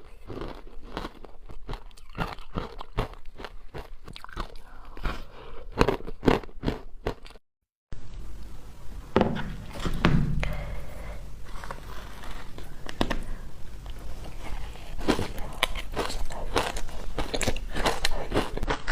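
Biting and crunching of wet frozen matcha ice, a dense run of sharp cracks and crunches, with a half-second break of dead silence about seven and a half seconds in.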